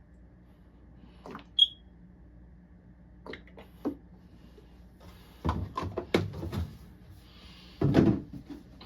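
Scattered knocks and clatter of someone handling a washing machine and laundry, with a cluster of knocks about five and a half seconds in and another near the end, and one short electronic beep about one and a half seconds in.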